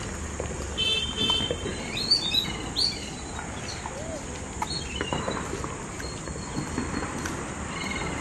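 Birds chirping, with several short rising calls in the first three seconds, over steady outdoor background noise.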